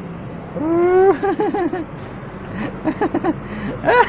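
A bird giving harsh, pitched calls: a rising note followed by quick runs of short repeated notes, several a second, coming in bursts. These are the calls the owner calls angry.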